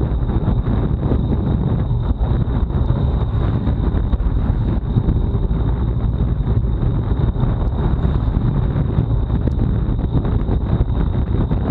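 Wind buffeting the microphone of a Garmin Virb Ultra 30 action camera on a road bike at race speed: a loud, steady, low rumbling rush, with a thin high whine above it.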